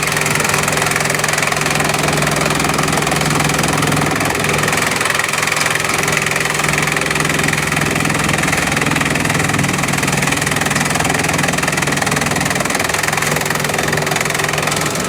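Bamboo chipping machine running steadily, a continuous loud mechanical drone with a low hum.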